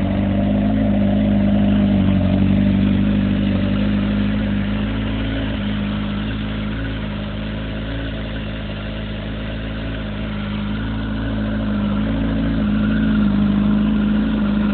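2007 Kawasaki ZX-10R inline-four engine idling steadily while still cold, shortly after a cold start.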